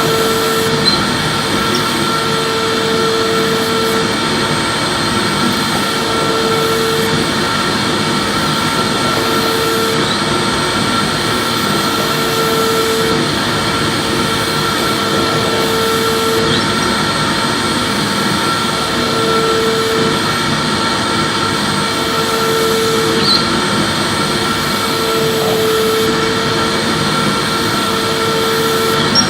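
Electric vacuum cleaner running steadily, its motor giving a constant whine and rush of air, with a lower hum that comes and goes every second or two as it is pushed back and forth.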